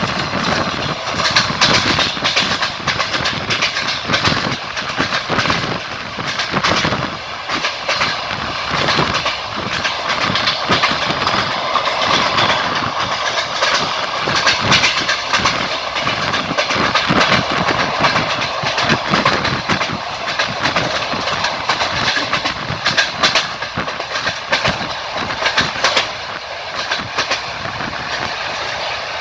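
Passenger train carriage running at speed, its wheels clattering over rail joints with irregular clicks and knocks over a steady rolling noise, heard from inside the coach at the window.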